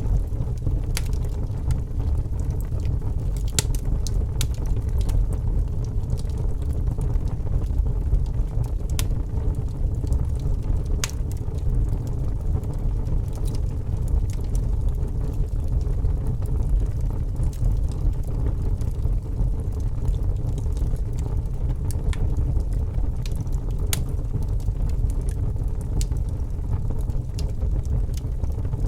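Wood campfire burning: a steady low rumble of the flames with scattered sharp crackles and pops from the burning wood.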